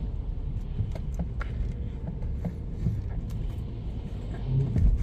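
Steady low road and engine rumble inside the cabin of a 2011 BMW 5 Series GT 35i on the move, with a few faint clicks.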